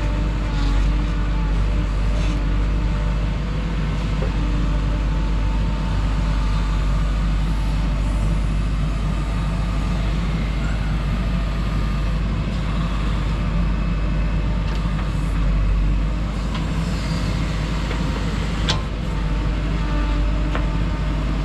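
JCB 3DX backhoe loader's diesel engine running steadily under working load, with a single sharp knock near the end.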